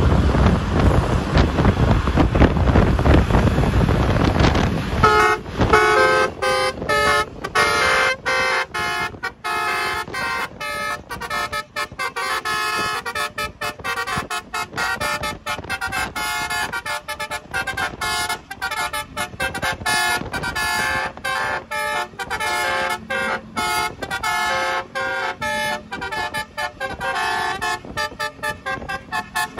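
Noisy rumble with wind on the microphone for about five seconds, then a basuri multi-tone bus horn playing a quick melody of short, stepped notes that runs on.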